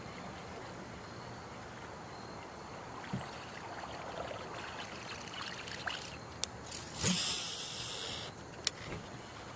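Faint steady trickle of river water around a kayak, with a few sharp clicks and, about seven seconds in, a loud rush of noise lasting just over a second.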